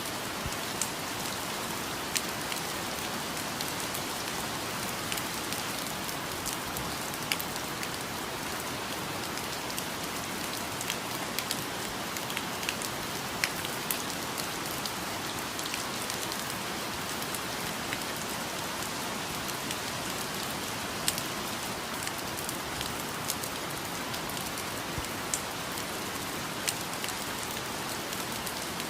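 Steady rainfall, an even hiss with scattered louder drops ticking on nearby surfaces.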